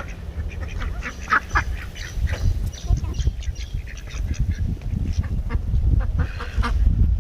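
A flock of ducks quacking, many short calls overlapping one after another, over a steady low rumble.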